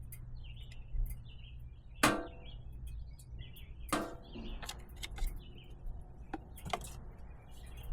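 A few sharp knocks with a short ring, the loudest about two seconds in and another about four seconds in, from tools and parts being handled during reassembly after a motorcycle oil change. Birds chirp throughout in the background.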